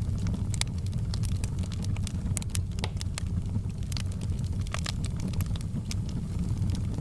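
Wood fire burning with a steady low rumble, with frequent sharp crackles and pops at irregular intervals.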